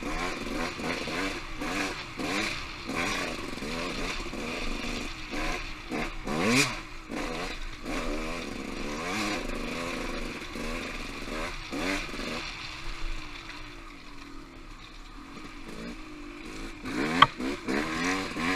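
Off-road motorcycle engine revving up and down over and over, its pitch rising and falling as the throttle is worked, easing off for a few seconds after the middle. A single sharp knock sounds near the end.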